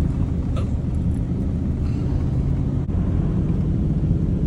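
Truck engine running under load on a steady low rumble while climbing a hill. Its steady hum changes about three seconds in.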